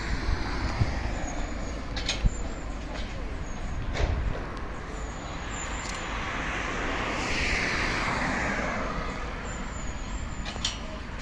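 Isuzu 4×4 water truck running, a steady rumble that swells into a louder rushing noise about seven seconds in and then fades, with a few sharp clicks.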